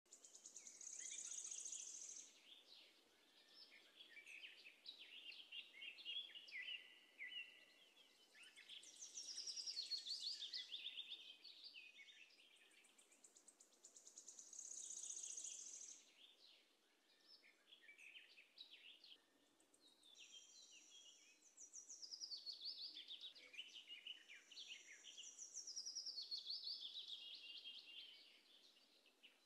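Birds singing: repeated high chirping and trilling phrases a couple of seconds long, some running down in pitch, over a faint background hiss.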